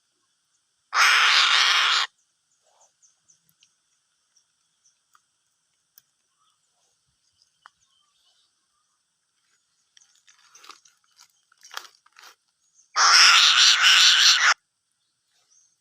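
An eagle tearing at a large catfish, its beak making scattered wet crunching and ripping clicks. Twice, about a second in and again near the end, a loud rushing noise lasts a second or so.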